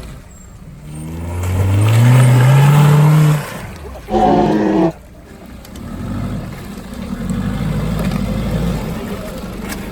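Off-road vehicle's engine revving hard under load, rising in pitch over about two seconds, then a second short loud burst, then a lower labouring rumble.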